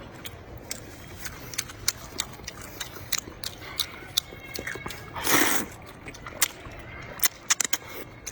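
Close-miked chewing, with wet mouth clicks and smacks scattered irregularly throughout, and one louder, breathy slurp or sniff about five seconds in.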